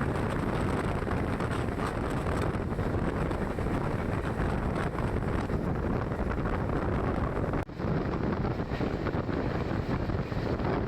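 Steady rumble of a moving passenger train, with wind buffeting the microphone; the sound cuts out for an instant a little under eight seconds in.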